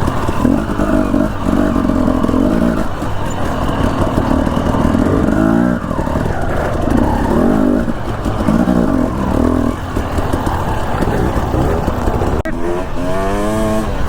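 Dirt bike engine running under throttle, holding steady stretches and climbing in pitch as it accelerates, once about midway and again near the end.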